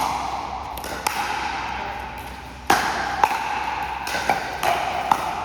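Pickleball paddles striking a hollow plastic pickleball during a rally: about six sharp pocks, roughly a second apart, with ball bounces among them.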